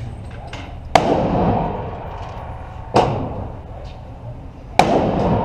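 Three gunshots about two seconds apart, each a sharp crack followed by an echoing tail.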